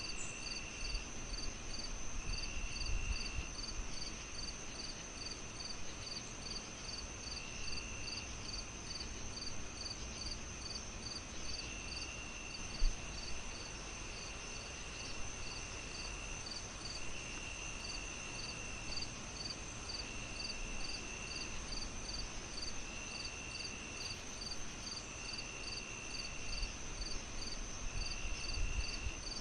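Crickets chirping in an even pulse of about two to three chirps a second over a continuous high insect trill, with other chirp runs coming and going, above a low fire crackle that gives one louder pop near the middle.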